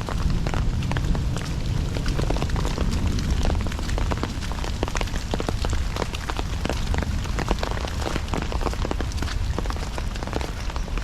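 Heavy rain: a dense crackle of individual drops striking close by, over a steady low rumble.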